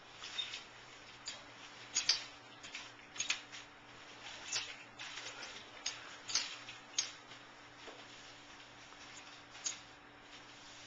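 Scattered light clicks and taps at irregular intervals, about ten of them, from something being handled, over a faint steady low hum.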